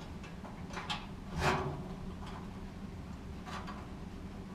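Light metal clicks and taps, with one louder scraping clunk about a second and a half in, as a gas dryer's motor is clamped into its mounting bracket.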